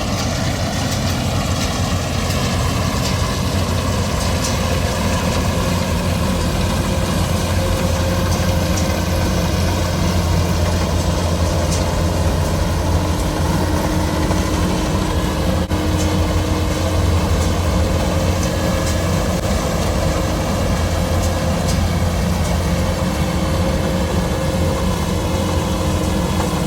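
Combine harvester engine running steadily at a constant speed, a continuous low drone with no breaks.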